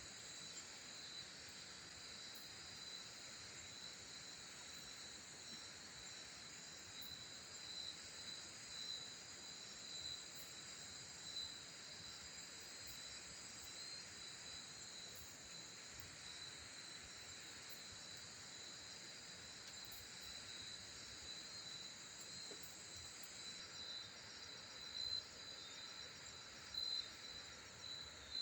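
Steady chorus of forest insects such as crickets, a high pulsing trill that goes on throughout, with a few brief louder chirps near the end.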